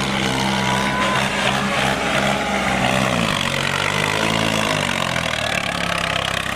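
Tractor diesel engine running. Its pitch sinks about three seconds in and climbs back up about two seconds later.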